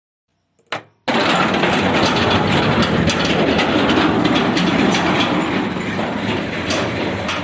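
A small motor switched on with a click, then running with a loud, dense rattle.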